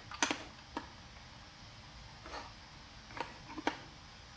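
About five scattered, sharp clicks at a computer, the loudest shortly after the start, over faint room tone.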